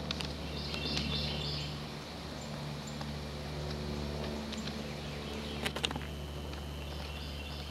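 Outdoor ambience with a songbird singing short chirping phrases over a steady low drone like a distant engine. A few brief paper crackles come about two-thirds through, as the cat moves inside the paper bag.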